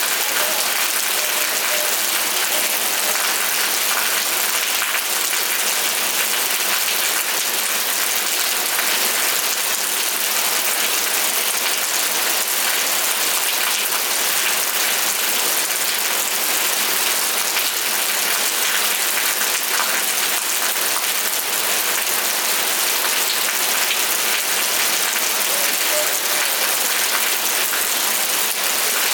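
Steady rainfall, an even hiss of many drops falling on a surface.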